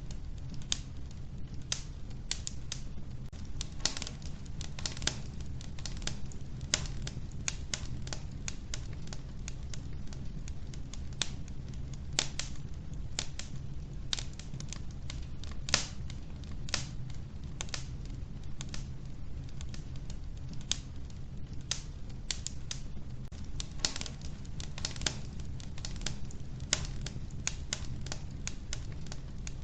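Wood fire in a wood-burning stove crackling: irregular sharp pops and snaps from the burning logs, several a second, over a steady low rumble of the flames.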